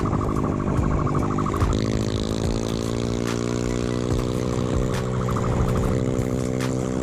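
Vehicle engine running hard during a high-speed pursuit, with a steady pitched note that shifts about a second and a half in and then holds.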